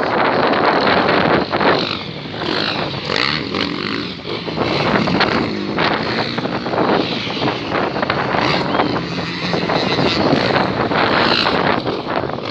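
Motocross bikes racing, their engines revving hard, with the loudness rising and falling as they pass.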